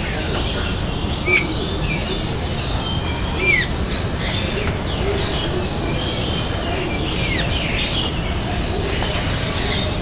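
Birds calling: scattered short chirps and whistles, some sliding down in pitch, the sharpest notes about a second in and again a couple of seconds later, over a steady low rumble.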